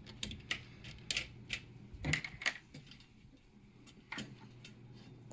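Irregular clicks and taps of PC case fans, a radiator and its support bracket being handled and lined up while the first fan screw is driven in, most of them in the first half and one more about four seconds in.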